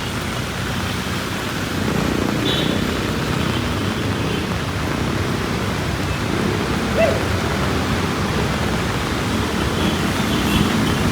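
Heavy rain falling steadily, a dense even hiss that grows a little louder about two seconds in.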